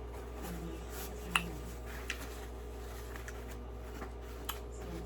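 Steady low hum of room tone with a few faint, sharp clicks and taps, the clearest about a second and a half in and again near the end.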